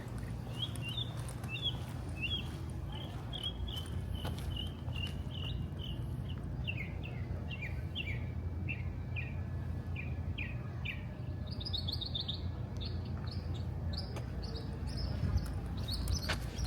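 A bird singing a long series of short, repeated chirps, about two or three a second, the notes shifting higher about two-thirds of the way through, over a steady low rumble.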